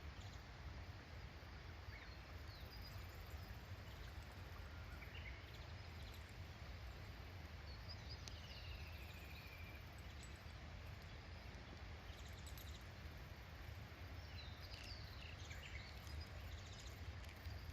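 Outdoor ambience: scattered short bird chirps and calls, one falling call about halfway through, over a steady low rumble.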